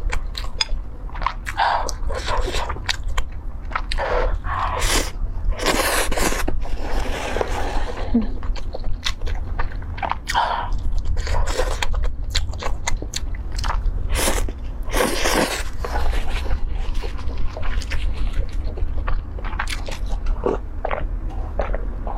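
Close-miked eating: a person biting and chewing crunchy food, with irregular crackles, clicks and mouth sounds throughout, over a steady low hum.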